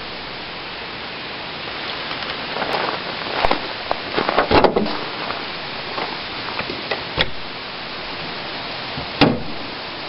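Steady hiss of compressed natural gas venting to atmosphere through the exhaust hose after the fill line is shut off. Scattered sharp clicks and knocks, most of them in the first half and one near the end.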